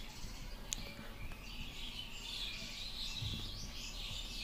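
Faint, irregular bird chirping in the background, with a single small tick about a second in.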